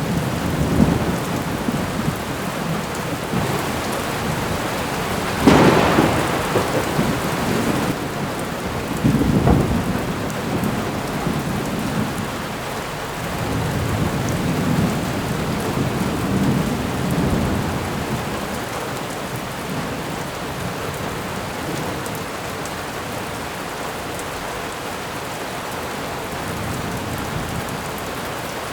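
Thunderstorm: steady heavy rain with rolling thunder. A sharp thunderclap comes about five seconds in and a smaller one near ten seconds, with low rumbles between; the second half is mostly steady rain.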